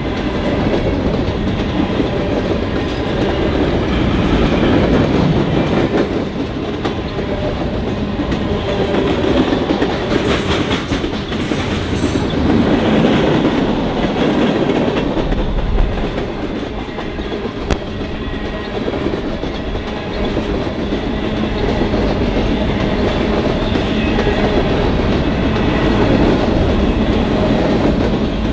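Freight train of boxcars and covered hoppers rolling past close by at a steady speed: the steel wheels run over the rails in a continuous rumble.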